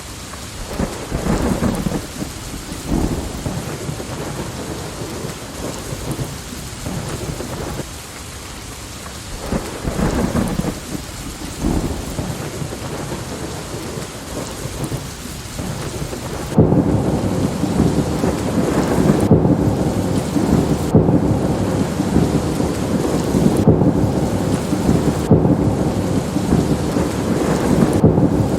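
Steady rain with crackling, rolling thunder that swells and fades in irregular surges. About two-thirds of the way through, the thunder abruptly becomes louder and denser, a heavy continuous low rumble.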